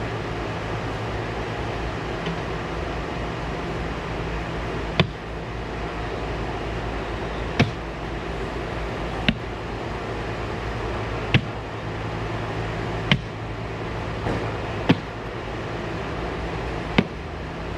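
A steady low machine hum, broken by a sharp click roughly every two seconds from about five seconds in.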